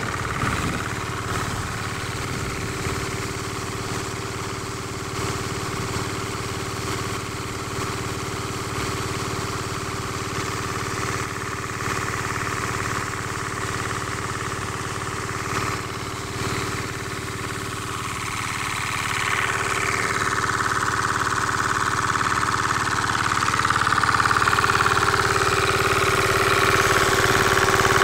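Diesel engine driving a water pump, running steadily. About two-thirds of the way through it grows louder, and a higher whine joins in and holds to the end.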